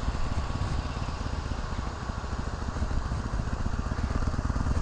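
2019 Harley-Davidson Sportster Iron 883's air-cooled V-twin engine running with a steady pulsing beat as the bike pulls away in first gear.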